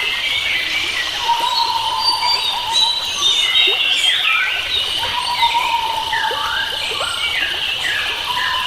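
Forest bird chorus: many wild birds singing and calling over one another in quick whistled chirps and glides, with a recurring held note and a steady high hiss beneath.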